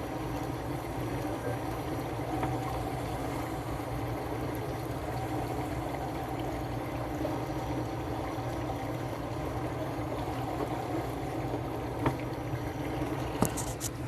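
Speedboat engine running steadily, with water splashing and trickling around it. A couple of sharp knocks near the end.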